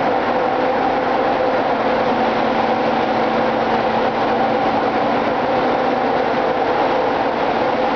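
Ship's engine-room machinery running: a loud, steady din with a couple of constant humming tones over it.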